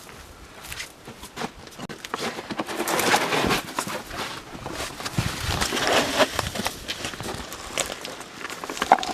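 Footsteps crunching and scuffing on dry rock and gravel, with rustling and brushing, as someone scrambles down into a dry stream bed.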